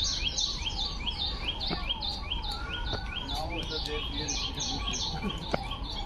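Birds chirping in short calls repeated evenly, about three to four a second, with faint voices underneath.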